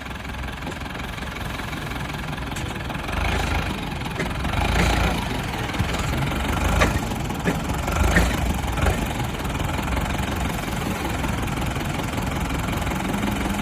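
An engine running unevenly, swelling louder a few times in the first half.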